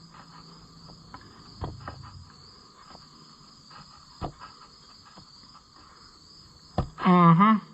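Crickets chirring steadily in the background, with a few sharp, separate clicks of metal as the tractor's starter bolts are worked by hand.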